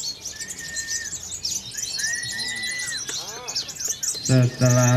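Many songbirds singing at once: a dense chatter of quick high chirps, with a couple of longer steady whistled notes in the first half. A man's voice starts near the end.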